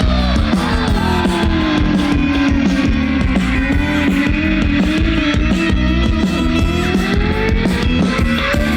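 Live rock band playing an instrumental passage with electric guitar over a steady beat. A sustained lead note slides down in pitch, holds, then slowly slides back up near the end.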